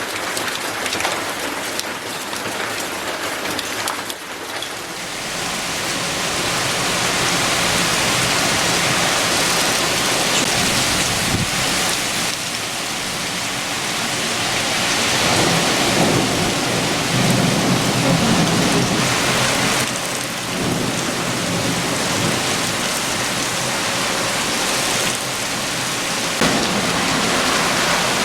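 Heavy rain falling steadily, growing louder after the first few seconds, with a low rumble of thunder rolling through about halfway in.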